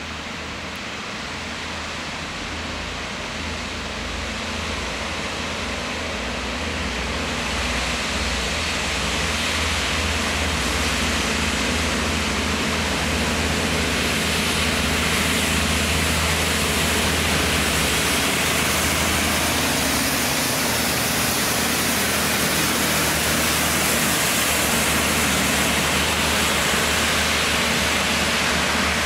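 Diesel-hauled Rail Head Treatment Train passing through a station, a low diesel rumble under a broad hiss. It grows louder over the first dozen or so seconds, then holds steady.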